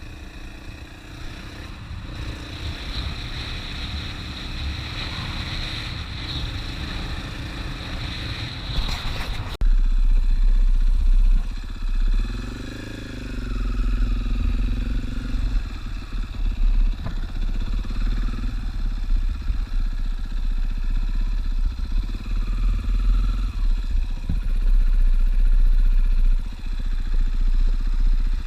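450cc single-cylinder dual-sport motorcycle riding along a dirt road, engine running steadily. About ten seconds in the sound changes abruptly to a louder, rumble-heavy mix, and a few seconds later the engine's pitch rises and falls as the rider changes throttle.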